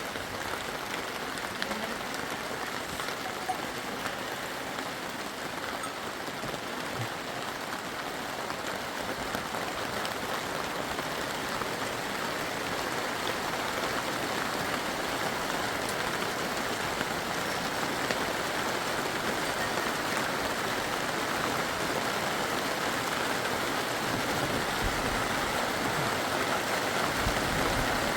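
Steady hiss of water, growing gradually louder.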